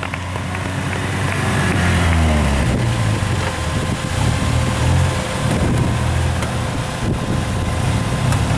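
Off-road 4x4's engine revving hard under load as it drives through an obstacle, its pitch rising and falling with the throttle.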